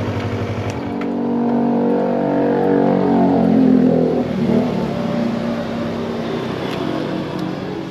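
Yamaha MT-25's parallel-twin engine pulling away from a low, pulsing idle, rising in pitch as the bike accelerates for about three seconds, then easing off and settling to a lower, steadier note.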